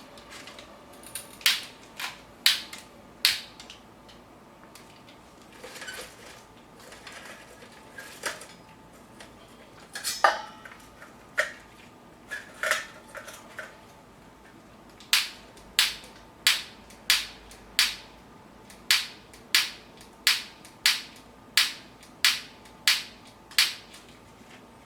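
Long-nosed utility lighter (100-yen Chakkaman type) clicked over and over without catching: sharp clicks, a few scattered at first, then a steady run of about one and a half a second in the second half.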